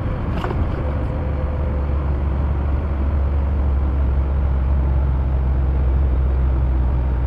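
Semi truck on the road: steady low engine and road rumble.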